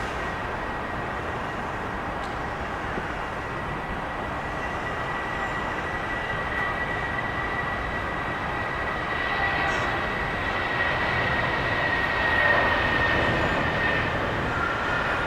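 Jet airliner engines running, a steady rush with a high whine, growing louder about nine seconds in; the whine dips slightly in pitch near the end.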